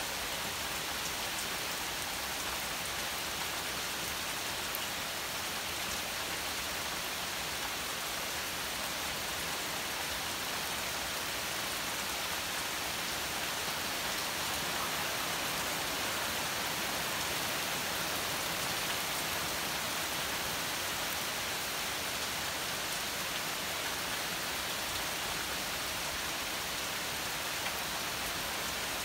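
Steady rain falling on woodland and grass, an even hiss with a few nearer drops ticking now and then.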